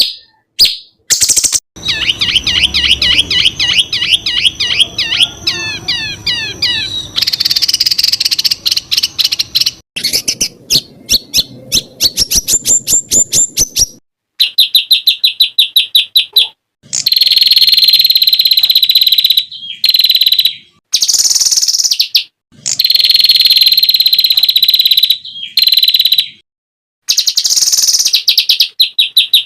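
Songbirds singing rapid-fire 'tembakan' phrases: sharp high-pitched notes repeated many times a second, fast trills and swooping whistles. The song comes in separate stretches that break off abruptly, with short silent gaps between them.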